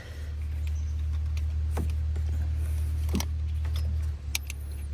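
A few light metallic clicks and clinks of small parts and tools being handled while an ATV throttle is fitted, over a steady low hum that drops in level about four seconds in.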